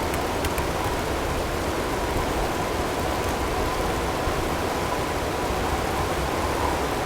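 Blizzard ambience: a steady rush of storm wind and blowing snow, with a faint steady tone mixed in and a few faint ticks near the start.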